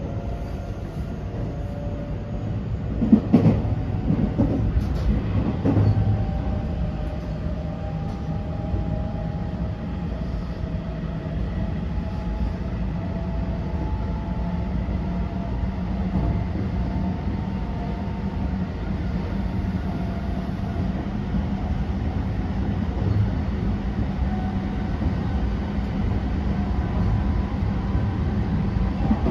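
Running noise inside the motor car of a JR West 321 series electric train: steady wheel and rail rumble with thin steady tones from the Toshiba IGBT inverter and traction motors. A few sharp clacks of wheels over rail joints or points come about three to six seconds in.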